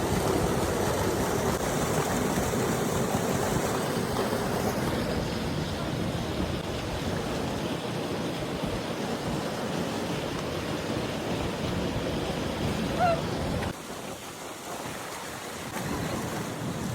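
Wind buffeting the microphone: a steady rushing noise that starts abruptly, drops in level about three-quarters of the way through and picks up again near the end.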